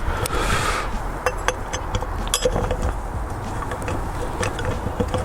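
Irregular small metallic clicks, clinks and knocks of bolts and a hand tool as the exhaust and its gasket are fitted back onto a Stihl HS86R hedge trimmer, with a brief rustle about half a second in.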